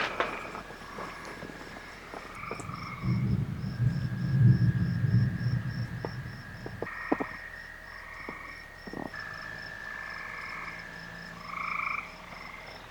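Frogs calling in overlapping trills and croaks, over a fast, even pulsing of insects. A low rumble rises about three seconds in and dies away a few seconds later.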